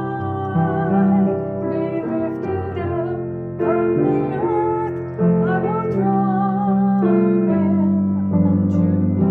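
A woman singing a worship song with vibrato over sustained electric piano chords.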